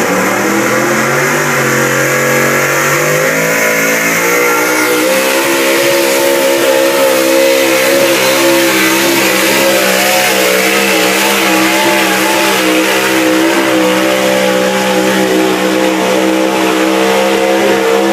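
Pickup truck engine running hard at high revs under heavy load while pulling the sled, its pitch climbing over about the first five seconds, then held high with a slight waver.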